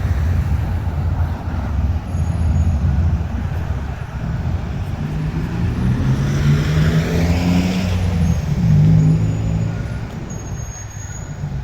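Road traffic: a motor vehicle passes, its engine note swelling and shifting in pitch about halfway through, then fading, over a steady low rumble.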